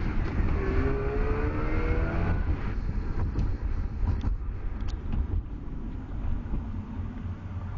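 Mazda RX-8's two-rotor rotary engine heard from inside the cabin, revving up under hard acceleration with a rising note. About two and a half seconds in the revving stops and a low road and engine rumble carries on, slowly fading as the car slows.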